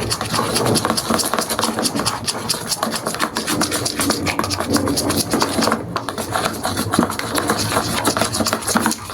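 Spoon stirring sticky slime mixture in a small plastic pot: a fast, continuous run of wet scraping and clicking.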